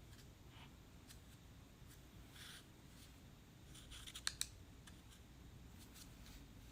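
Quiet handwork with a pottery knife on a clay slab: a short scrape, then a few light clicks and two sharp taps about four seconds in.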